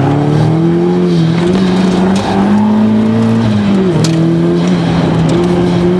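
2004 Mazdaspeed Miata's turbocharged 1.8-litre four-cylinder engine running hard on an autocross course, heard from inside the open cockpit. Its pitch rises and falls with the throttle, drops sharply about four seconds in, then climbs again.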